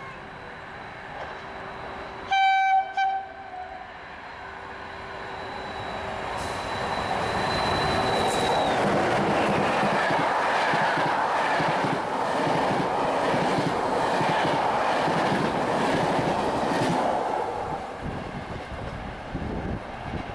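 Passenger train hauled by an electric locomotive, sounding its horn in two short blasts and then running through the station at speed. The rumble and wheel clatter of the passing coaches build up, stay loud for about nine seconds, and fade away near the end.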